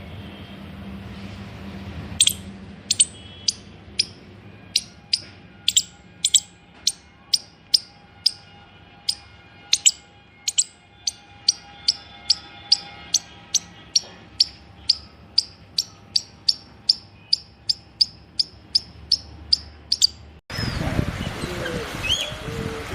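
A bird giving a long series of short, sharp, high chirps, each dropping in pitch, about two a second and coming slightly faster toward the end. Near the end the sound cuts abruptly to louder rustling noise with a few squeaks.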